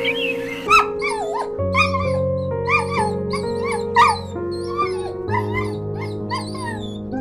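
Repeated short, high animal calls, about two a second with bending pitch, starting under a second in, over soft background music with sustained notes.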